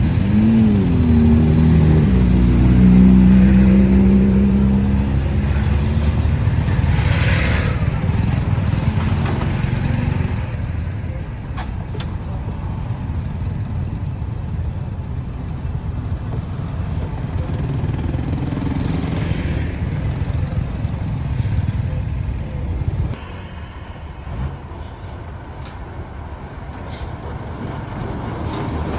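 Road traffic noise: motor vehicle engines and tyre rumble. An engine's pitch rises and falls in the first couple of seconds, then holds a steady drone for a few seconds. Passing vehicles swell and fade twice, and the overall noise drops sharply a few seconds before the end.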